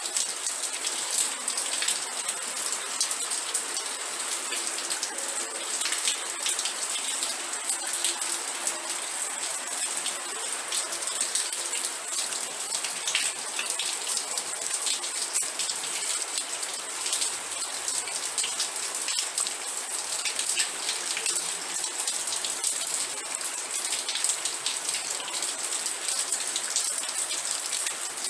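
Steady rain, with many separate drops striking a surface as fine ticks over a dense, even hiss.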